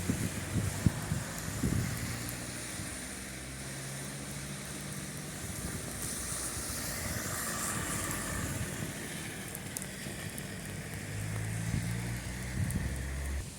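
Motor vehicle engine running, over a steady hiss of rain. The sound drops away abruptly near the end.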